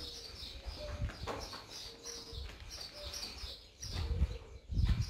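Small birds chirping in quick, repeated high notes, over a low rumble of movement near the microphone that grows louder near the end.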